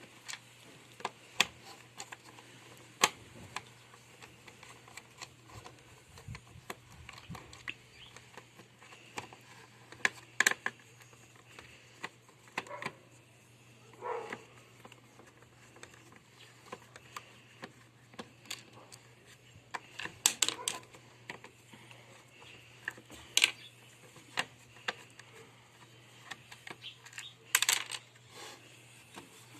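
Irregular clicks and knocks of a washing machine's plastic parts and fittings being handled and removed during disassembly, over a faint steady hum.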